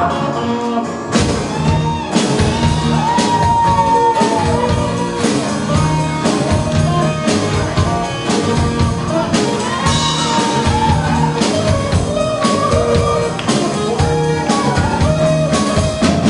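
Live rock band playing with a singer: drum kit beats, a bass line and electric guitar under a sung vocal line.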